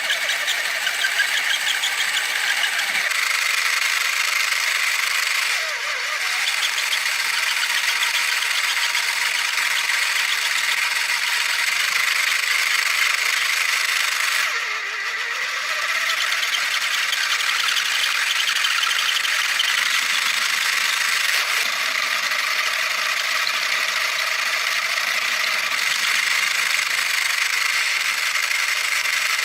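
Small motor driving a homemade PVC gearbox, running steadily with a continuous whirring rattle of the gears.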